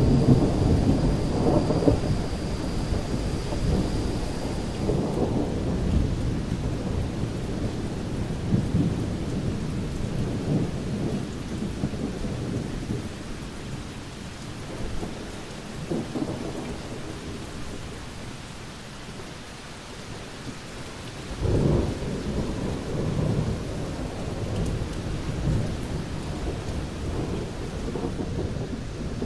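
Thunderstorm: low rolling thunder rumbling over steady rain, easing off past the middle, then a fresh clap and rumble about three-quarters of the way through.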